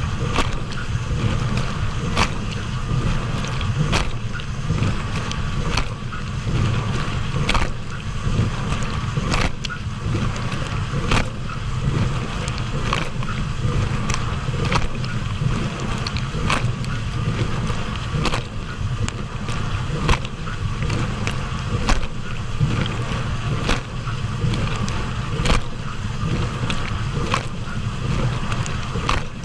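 Hotpoint dishwasher running its wash, with water spraying and the pump running steadily. A sharp splash or hit recurs about every second and three-quarters.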